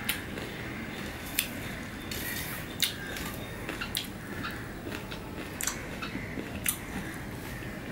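Someone chewing juicy pomelo pulp mixed with chilli and salt, with sharp wet mouth clicks and smacks at irregular intervals, about one a second.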